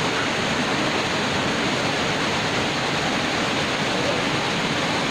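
Waterfall crashing steadily, a constant loud rush of falling water.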